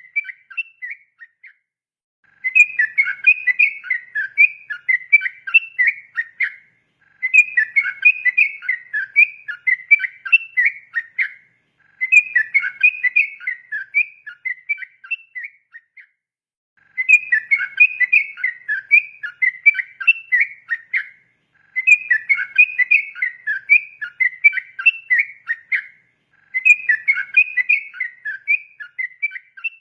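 Yellow-vented bulbul (trucukan) singing its long, chattering song in repeated phrases of rapid bubbling whistled notes. Each phrase lasts about four seconds and is followed by a short pause, about six times over.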